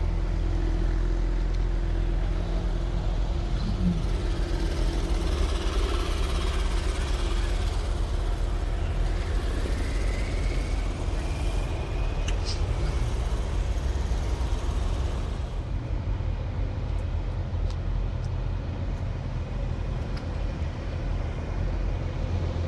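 Cars rolling slowly into a parking lot with their engines running, a steady low rumble.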